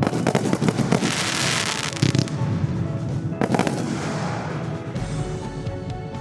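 Consumer fireworks show: a run of sharp bursting reports, with a dense spell of crackling about a second in and heavier bursts near two and three and a half seconds in, over music.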